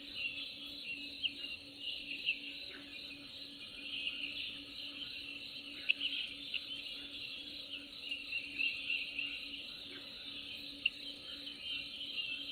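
Valley nature ambience: a dense, steady layer of high chirping, with a faint steady low hum beneath it.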